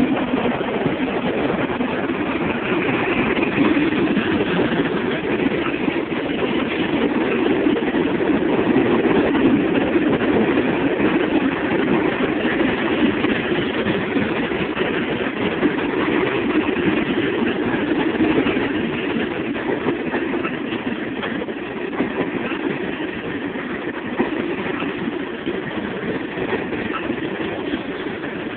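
Freight train rolling past: a steady, unbroken rumble of the train on the rails that eases off slightly toward the end.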